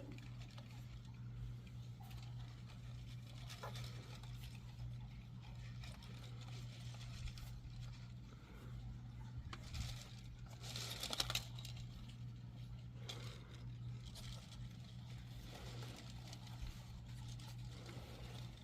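A steady low hum, with faint scattered rustling and a louder brief rustle about eleven seconds in.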